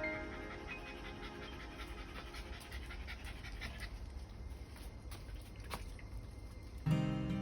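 Dog panting in quick, steady breaths. Music comes in near the end.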